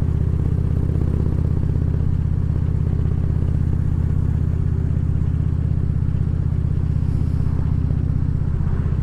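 Harley-Davidson Ultra Classic Limited's big V-twin engine running steadily under way, its pulsing low exhaust rumble constant throughout.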